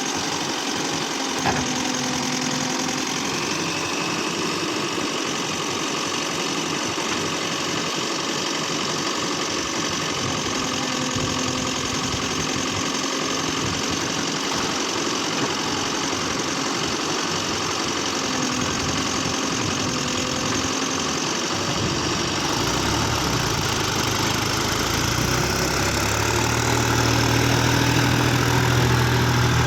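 Tractor engine running steadily. About two-thirds of the way through it grows louder and deeper, with a strong low rumble coming in.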